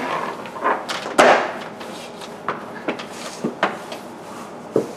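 Irregular knocks and short scrapes of hard objects being handled and bumped, about half a dozen, the loudest a little over a second in.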